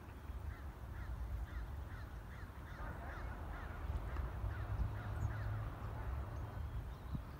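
A bird calling over and over, short calls about twice a second, over a low steady rumble.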